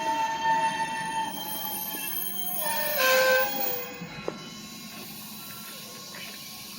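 Electric train at a station platform, its wheels squealing in several steady whining tones. About three seconds in a loud rushing burst comes with a falling squeal, then the sound settles to a lower, steadier noise.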